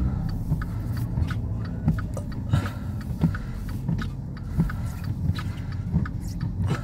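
A car driving slowly through snow, with a steady low engine and road rumble and irregular short knocks.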